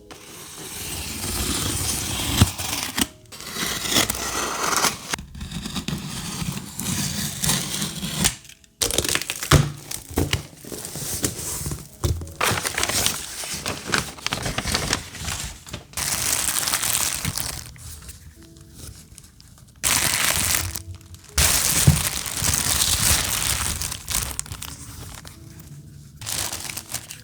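Crinkling and rustling of crafting materials being handled, in noisy stretches of a few seconds broken by short pauses, over soft background music.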